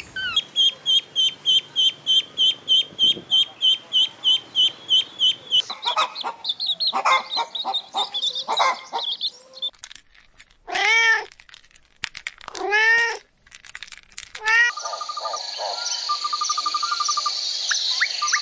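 A cat meowing: two long, loud meows that rise and fall, and a shorter third one. Before them a bird gives fast, evenly repeated high chirps, about three or four a second, and after them comes a steady hiss with short trills.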